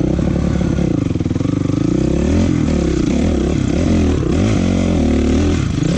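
Honda CRF450 dirt bike's single-cylinder four-stroke engine running under way, its pitch rising and falling several times as the throttle is opened and closed.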